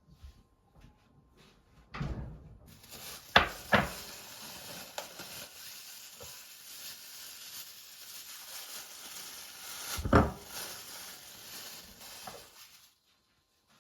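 A few knocks and clatters, with a steady hiss that starts about three seconds in and stops shortly before the end.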